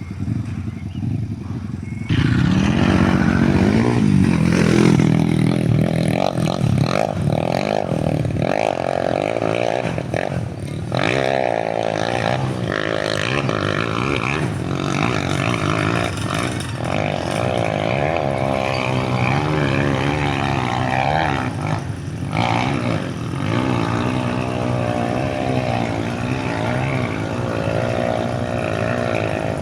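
Trail motorcycle engine running and revving, its pitch rising and falling as the throttle is worked, getting much louder about two seconds in.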